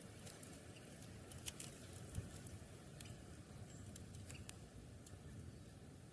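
Faint, irregular light taps and clicks, several close together in the first half, over a low steady background hiss.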